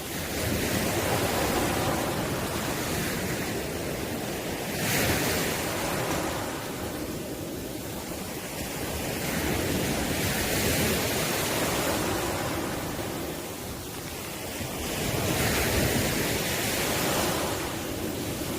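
Sea waves breaking on the shore: a continuous rushing wash of surf that swells and subsides every four to five seconds.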